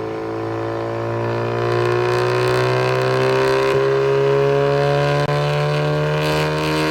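Car running on a chassis dynamometer, its engine note climbing slowly and steadily as it accelerates in one gear.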